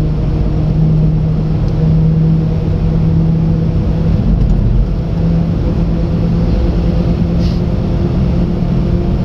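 Japanese mini truck running at road speed, heard from inside the cab: a steady engine drone over the rumble of its bias-ply UTV tires. The engine note dips briefly about five seconds in.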